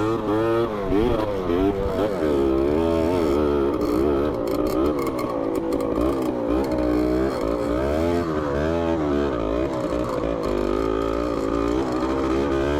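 Dirt bike engine revving up and down again and again as the throttle is worked over uneven rock.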